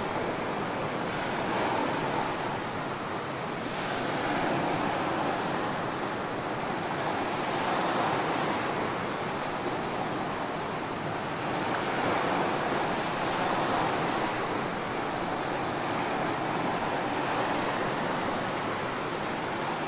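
Ocean surf on a tropical beach: a continuous wash of waves breaking and rushing up the sand, swelling and easing every few seconds.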